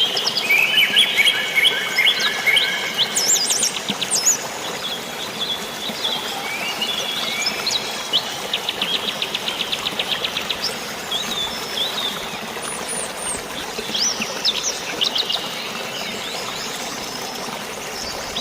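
Several birds chirping and whistling, with a fast trill of evenly repeated notes about eight seconds in, over a steady wash of rain and flowing water.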